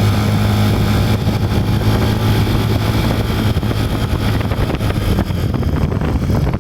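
Yamaha Cygnus-X fourth-generation scooter engine running at a steady speed with a low, even hum, recorded for an abnormal engine noise the owner hears.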